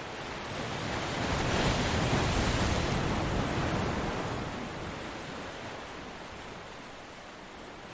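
Ocean waves on a beach: one wave builds about a second in, breaks with a loud rushing wash for a couple of seconds, then fades slowly as the water draws back.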